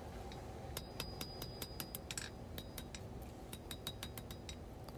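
Hand hammer striking hot high-carbon steel on an anvil, a quick run of blows at about five a second, each with a brief metallic ring. This is forging the steel to bend a reverse curve into the blade.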